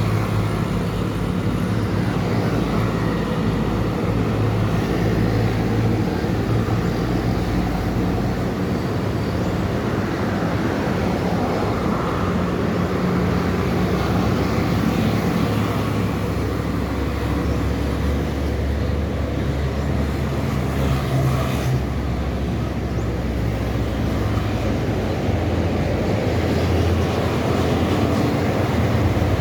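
Highway traffic heard from the roadside: heavy trucks' diesel engines and tyre noise making a steady rumble.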